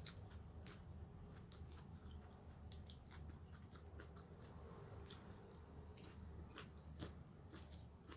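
Faint close-up chewing of raw vegetable salad: irregular crisp crunches and clicks from the leafy greens and vegetables being bitten and chewed.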